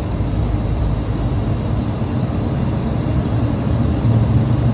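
Steady low rumble of engine and airflow noise inside an airliner's flight deck, shortly after takeoff.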